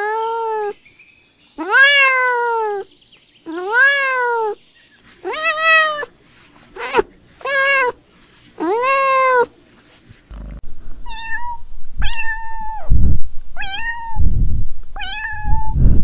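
Kittens meowing over and over: about seven drawn-out meows that rise and fall in pitch in the first ten seconds, then four higher, thinner mews in the second half, with a few low thuds among them.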